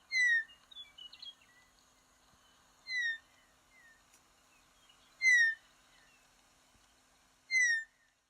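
Western meadowlark giving its weet call: four short, clear, falling notes about two to two and a half seconds apart, with a few fainter notes between the first two.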